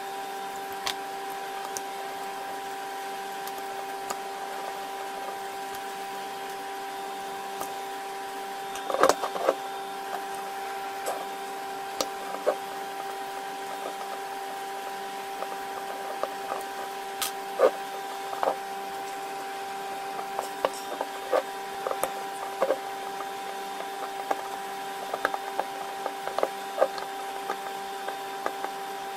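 A steady hum at an unchanging pitch, with scattered small clicks and knocks of parts being handled; a cluster of louder knocks comes about nine seconds in, with another sharp one a little past the middle.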